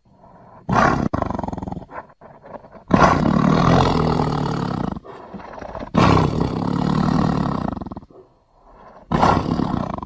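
Custom honey badger roar sound effects: a short roar about a second in, then three longer roars of about two seconds each, with quieter gaps between them.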